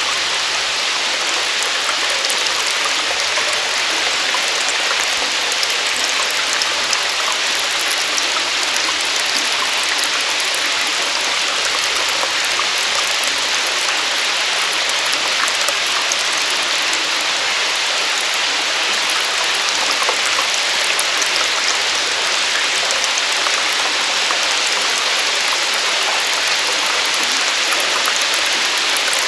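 Steady rush and splash of water falling in a small cave waterfall, an even, unbroken hiss with no pauses.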